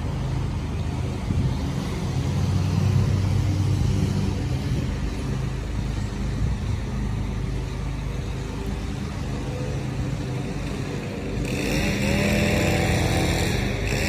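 Dodge Charger SRT8's 6.4-litre HEMI V8 running at a steady idle. About three-quarters of the way through, a steady hiss comes in alongside it.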